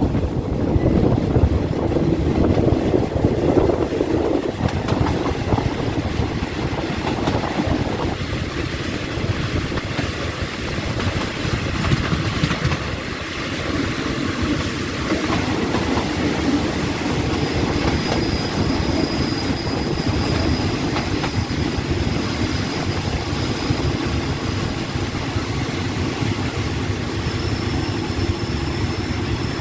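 Passenger train running on the track, heard close from an open coach door: a steady rumble with wheels clattering over the rails as it pulls into the station. A thin high squeal joins in about halfway through as the train slows.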